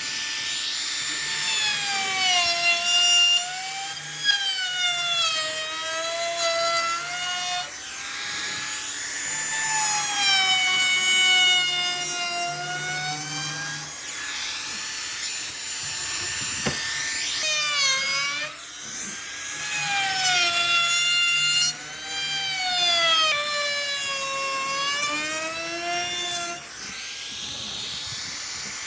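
Electric power tool working wood: a motor whine that dips and rises in pitch over and over, with a hiss of cutting over it.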